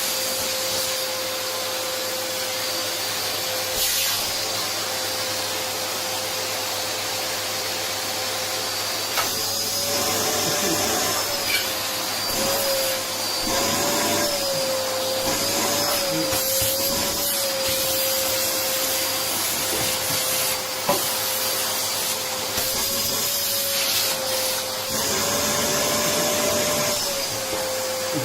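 Vacuum cleaner motor running steadily with a high whine, its pitch wavering up and down at times, with a couple of brief knocks.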